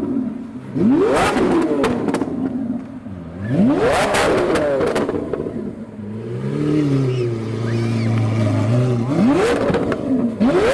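Lamborghini Aventador S's V12 with an Fi exhaust, blipped to high revs about three times. After each rev it settles back, and between revs it idles. Each blip ends in a burst of sharp pops and bangs from the exhaust on the overrun, the sound of the exhaust spitting flames.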